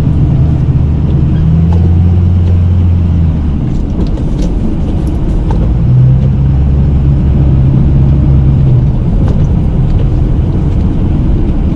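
Snow-plow pickup truck's engine running under load as it pushes a load of snow. Its low drone eases off about three and a half seconds in and builds again at about six seconds.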